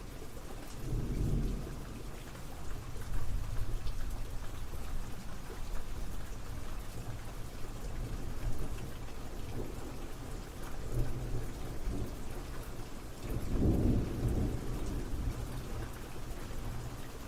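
Steady rain falling, with thunder rumbling low twice: briefly about a second in, and longer near the end.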